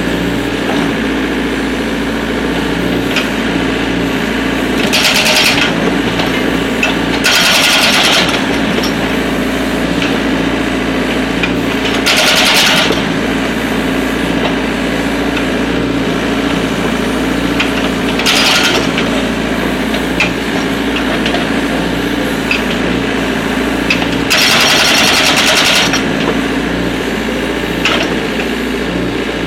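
Excavator-mounted hydraulic breaker hammering in short bursts, about five times, against a steady excavator engine, as it splits firewood logs.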